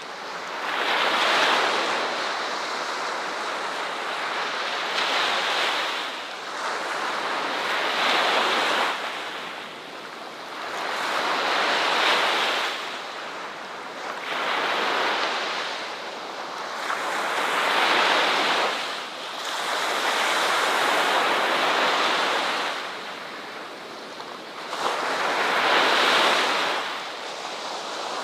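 Ocean waves breaking on the shore, each wave swelling and fading away every three to four seconds.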